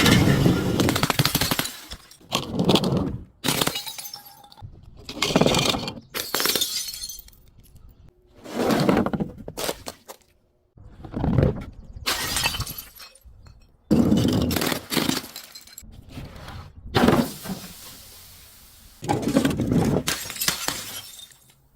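Glass being smashed and crushed: a series of about nine crunching, shattering crashes, one every two to three seconds.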